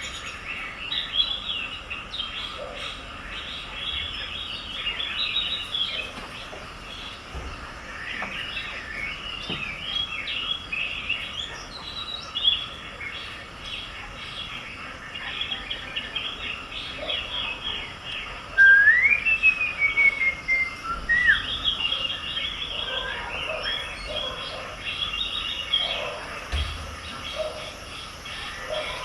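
Small birds chirping and twittering continuously. About two-thirds of the way through comes a louder call: a rising whistled note followed by a quick run of short notes.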